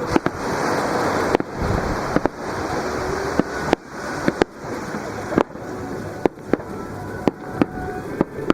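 Fireworks bursting in quick, irregular succession, sharp bangs roughly every half second, over the rushing wash of surf breaking on the beach.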